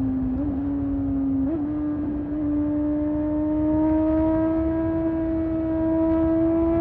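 Honda CBR600RR's inline-four engine pulling steadily at high revs while riding, its pitch climbing slowly as the bike gathers speed, with two quick flicks in pitch in the first two seconds. A low rumble runs beneath it.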